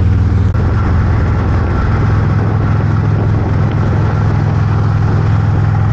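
Harley-Davidson motorcycle engine running at a steady speed, a steady low drone with a rushing noise over it.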